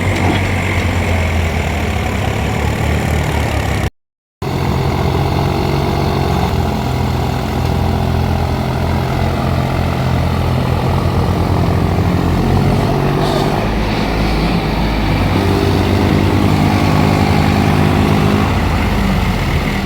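Tractor diesel engines running steadily under load while pulling a stuck tractor out of the mud, the engine note rising for a few seconds in the second half. The sound cuts out briefly about four seconds in.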